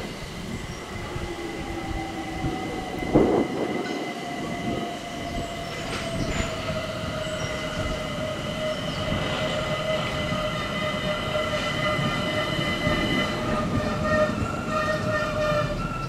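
A train running past on the line, with a steady high whine made of several tones, one of which slowly falls in pitch, over a rumble. A single sharp knock sounds about three seconds in.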